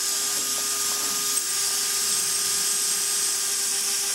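Brushless motors of an Eachine Falcon 180 racing quadcopter spinning with no propellers fitted, a steady whine, armed from the transmitter.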